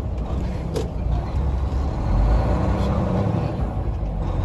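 Truck's diesel engine running under way, a steady low rumble that grows louder about two seconds in as it pulls harder.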